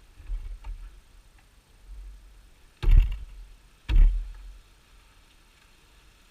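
Two sharp knocks about a second apart, each with a low thud, after a few lighter bumps and clicks of handling.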